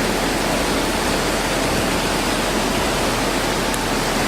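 Waterfall pouring into a pool at close range: a loud, steady rush of falling water.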